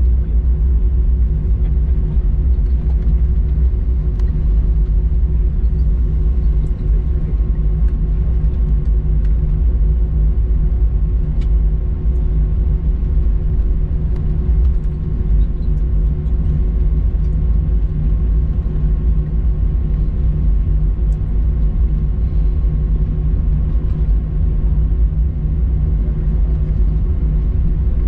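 Cabin noise inside an Airbus A321 taxiing after landing: a steady low rumble with a constant hum running through it, with a few faint clicks.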